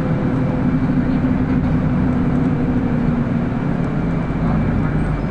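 City bus driving between stops, a steady engine drone and road noise heard from inside the passenger cabin.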